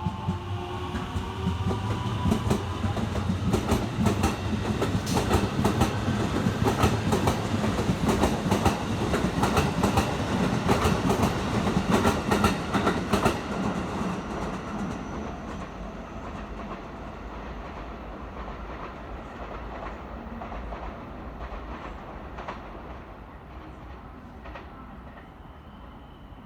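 Electric train passing through a station, its wheels clacking rapidly over rail joints; loud for about the first half, then fading away as it recedes.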